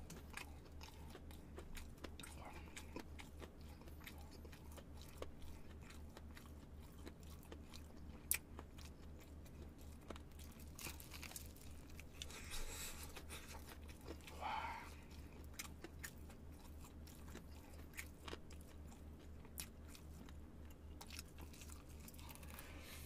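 Close-up biting, crunching and chewing of crispy fried chicken, a run of small crackling clicks at low level, over a steady low electrical hum.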